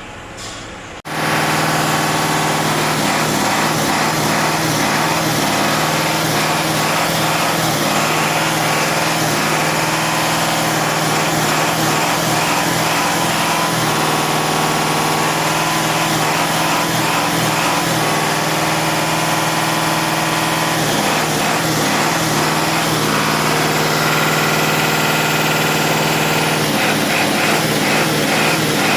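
An engine running steadily, cutting in abruptly about a second in.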